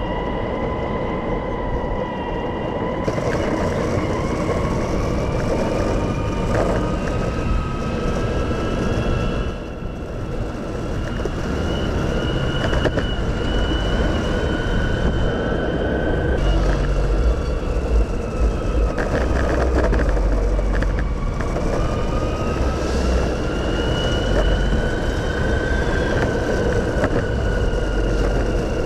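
A vehicle in motion: a steady rumble with a whine that drifts slowly up and down in pitch, the low rumble growing heavier about halfway through.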